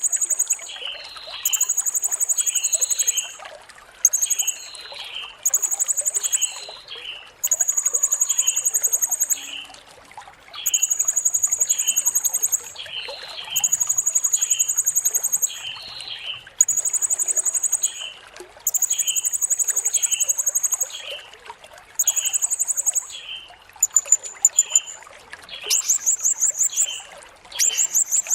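Blue-crowned hanging parrot (serindit) singing: high, buzzy trills, each a second or two long, repeated with short gaps, with shorter, lower chirps between them. A steady trickle of water runs underneath, and near the end the trills break into rapid stuttering notes.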